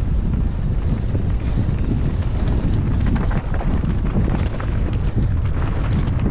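Heavy wind buffeting the microphone of an action camera on a mountain bike racing downhill at speed, with scattered clicks and knocks.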